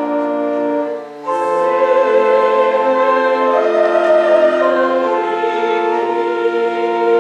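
A hymn sung to church organ accompaniment, held notes with a brief break between phrases about a second in.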